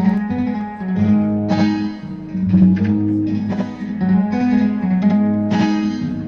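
Guitar strumming chords, about one sharp stroke a second with the chords ringing on between them, with no singing.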